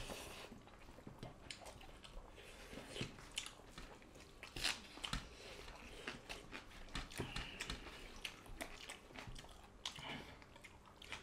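Close-miked eating sounds: chewing, lip smacks and wet squishes as two people eat rice and curry with their hands, in irregular quick clicks.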